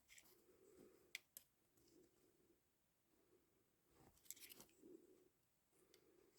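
Near silence with a few faint metallic clicks and scrapes: a motorcycle clutch plate being handled and measured.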